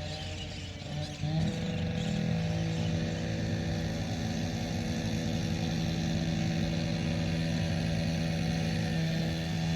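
An engine running at a steady speed with a constant-pitched hum, growing louder about a second and a half in and then holding level.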